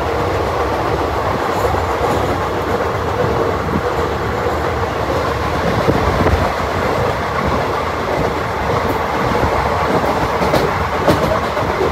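Passenger train coach running at speed, heard from an open window: a steady, loud running noise of the wheels on the rails.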